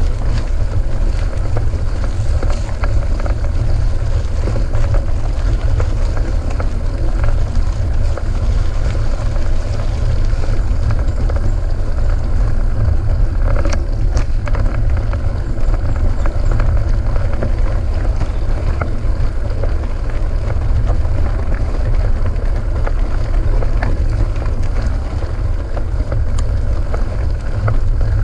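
Wind rumbling on the microphone of a GoPro riding on a full-suspension mountain bike in motion, with steady tyre and bike noise and scattered clicks and rattles.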